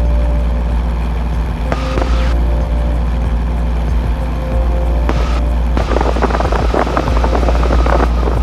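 Steady low drone of a 1977 Cessna 172N's four-cylinder Lycoming engine and propeller in cruise. There are two short bursts of hiss, about 2 and 5 seconds in, and a stretch of crackling near the end.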